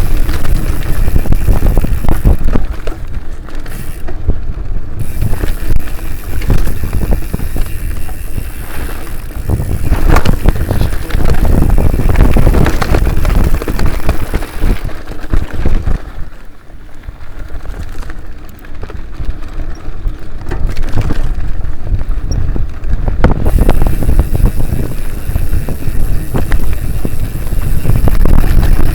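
Mountain bike ridden over a rough trail: wind buffeting the microphone over a steady rattle and clatter from the bike. It eases off for a few seconds around the middle.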